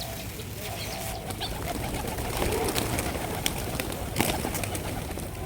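A flock of feeding pigeons cooing, with scattered sharp clicks over a steady low background rumble.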